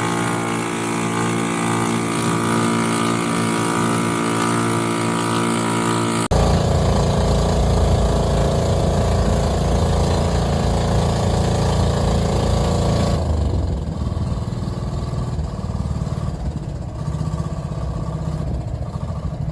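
Boat engine running steadily with an even hum, changing abruptly to a louder, deeper rumble about six seconds in and dropping to a quieter rumble about thirteen seconds in.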